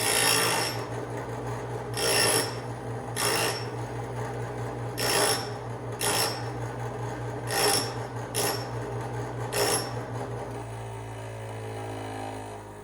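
Bench grinder running with a steady motor hum while a drill bit held in a homemade sharpening jig is ground against the wheel in eight short, separate passes, about one every second or so. The grinding stops about ten seconds in, leaving the motor hum.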